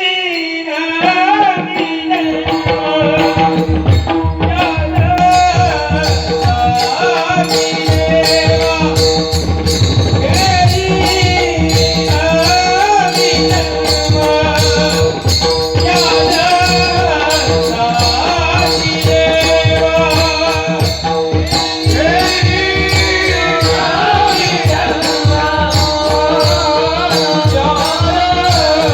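Marathi devotional bhajan: a male voice sings long, winding melodic lines over a steady held drone, with mridang drumming coming in about two seconds in and jingling metal percussion keeping time.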